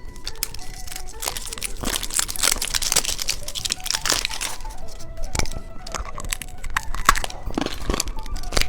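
Plastic candy wrapper crinkling and tearing in quick irregular crackles as a sweet is unwrapped, over quiet background music.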